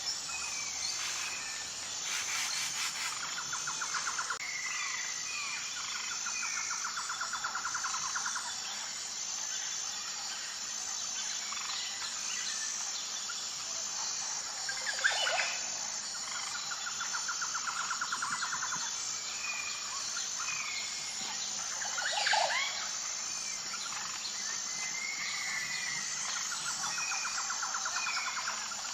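Wild birds chirping and calling over a steady high-pitched insect chorus, with a pulsing trill that comes three times, each lasting several seconds.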